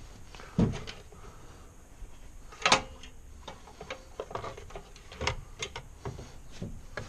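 Scattered knocks and clanks of metal parts and tools being handled during engine fitting: a dull thump just over half a second in, a sharp clank about two and a half seconds in that is the loudest, then lighter taps and clicks.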